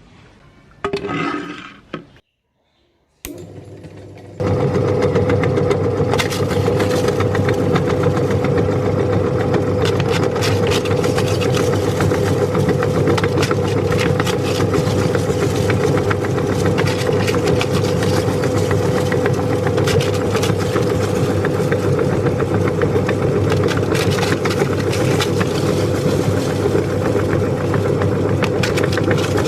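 Electric meat grinder switching on about four seconds in and then running steadily with a constant motor hum. Many small sharp cracks sound over the hum, the crisp pani puri shells being crushed in the grinder.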